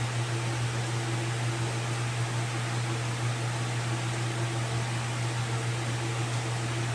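Steady low mechanical hum under an even hiss, with faint higher tones, unchanging.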